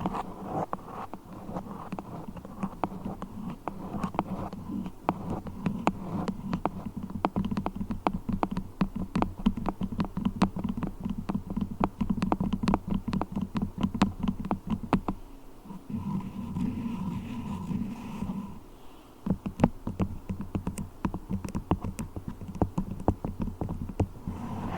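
Beeswax worked close to the microphone: a dense run of small sticky crackles and clicks, pausing briefly about two-thirds of the way through.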